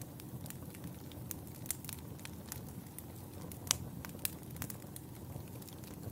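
Wood fire burning in a fireplace with a steady low rumble and irregular sharp crackles and pops, the loudest pop a little before four seconds in.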